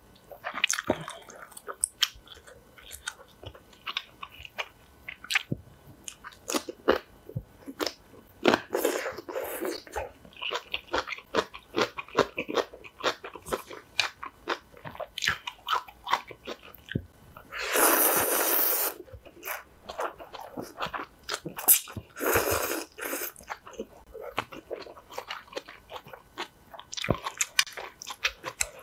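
Close-up chewing and crunching of napa cabbage kimchi: many small crisp crunches. Twice in the second half there is a louder rushing sound lasting about a second.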